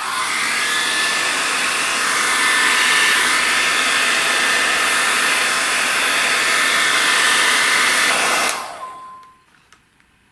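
Handheld air dryer running steadily with a whooshing hiss and a faint whine. It is switched off about eight and a half seconds in and winds down.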